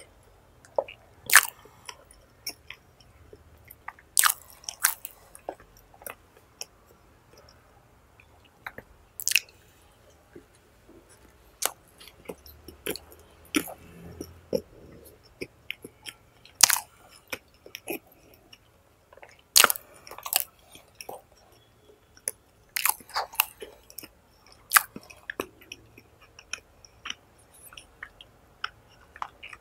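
Close-miked chewing of a soft steamed char siu bao (barbecue-pork bun), with irregular wet mouth clicks and lip smacks a second or several seconds apart.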